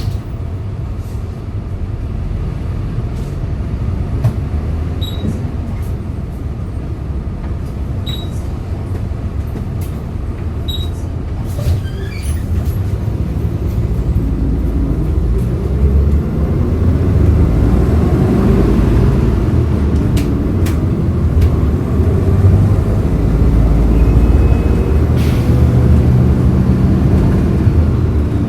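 Hyundai Green City CNG city bus engine running at low revs, then from about halfway through it rises in pitch and loudness as the bus accelerates.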